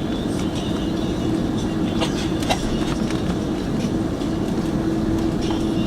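Airbus A330 passenger-cabin noise on the ground after landing: a steady rumble with a constant hum, and a few light clicks and rattles scattered through it.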